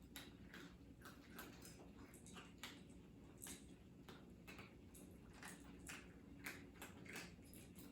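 Cats eating: faint, irregular clicks and smacks of chewing and lapping at food, two or three a second.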